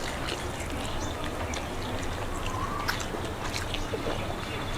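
Close-up eating sounds: chewing and smacking as rice and chicken curry are eaten by hand, a string of small wet clicks.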